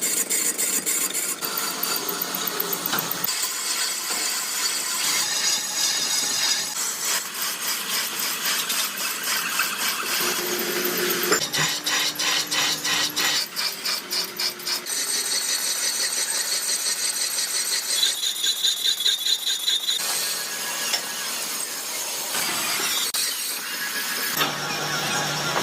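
Metalworking machinery in a truck-wheel factory: a run of short takes of high-pitched machining, cutting and scraping of metal. The sound changes every couple of seconds, and some stretches carry a fast, even rattle.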